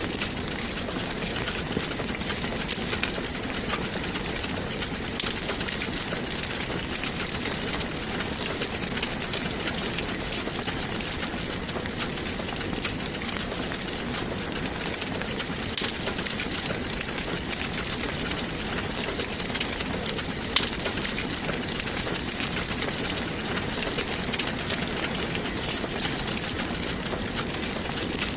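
Wood fire crackling in a fireplace: a steady hiss full of small pops, with a few louder snaps.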